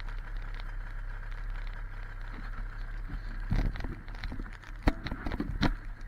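Ski-Doo MXZ 670 two-stroke twin engine idling with a steady low hum, joined from about halfway by a run of irregular knocks and bumps.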